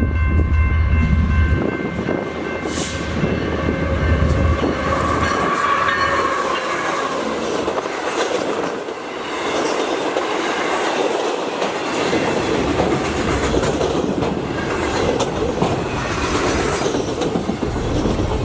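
Freight train carrying Boeing aircraft fuselages rolling past at close range, its wheels clattering over the rail joints. A deep locomotive rumble passes in the first second or two and returns in the second half, and a brief wheel squeal rises and fades about five seconds in.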